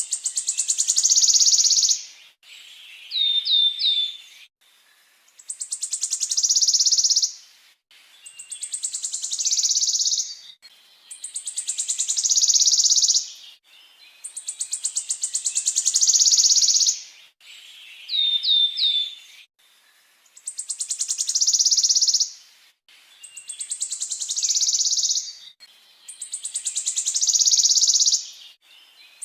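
Songbird's rolling trill: a rapid run of high notes that grows louder over about two seconds, repeated about every three seconds, with two short sets of three falling whistle notes.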